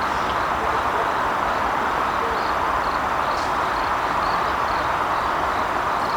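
Steady, even rushing noise with no pitch. From about two seconds in, faint high chirps repeat about three times a second.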